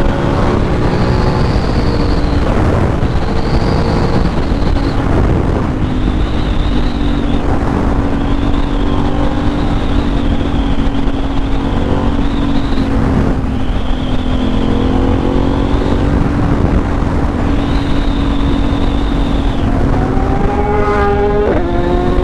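Superbike engine running at a steady highway cruise, buried in heavy wind rush on the helmet microphone; near the end the engine note climbs as the bike revs up.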